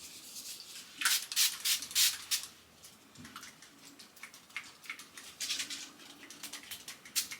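Pump-spray bottle of makeup setting spray spritzed several times in quick, short hissing bursts, first about a second in and again later.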